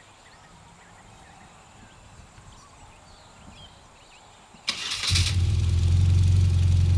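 Motorcycle engine started: a brief crank about four and a half seconds in, then the engine catches and settles into a steady idle. Before that there is a quiet background with faint high chirps.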